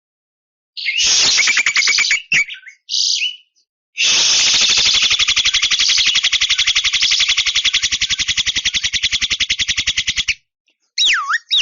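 Javan myna (jalak kebo) calling: a harsh, rapid rattling call about a second in, a short note, then a long fast buzzing rattle lasting about six seconds. Near the end come repeated swooping whistles that drop and rise again.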